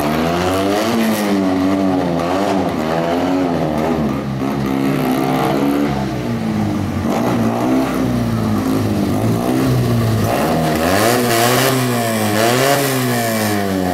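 Fiat 126's small rear-mounted, air-cooled two-cylinder engine revving up and falling back again and again, every second or two, as the car is manoeuvred tightly between gymkhana cones.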